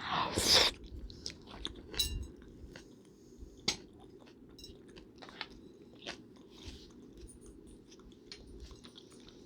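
A person chewing and eating close to the microphone, with scattered small mouth clicks and crunches. A short, loud burst of noise comes right at the start.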